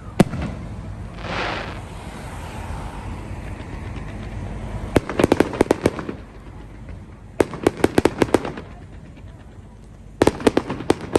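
Fireworks going off: a sharp bang just after the start and a short hissing rush about a second later. Then come three volleys of rapid crackling pops, each lasting about a second, around five, seven and a half, and ten seconds in.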